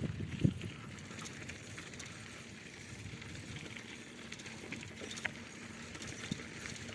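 Rumble and rattle of a bicycle being ridden, with scattered clicks and a sharper knock about half a second in and again about five seconds in.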